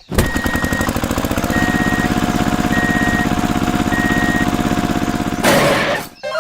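Construction machine sound effect: an engine rattling fast and evenly with a steady whine, while a backing beeper sounds four times at even spacing. A short burst of hiss comes near the end.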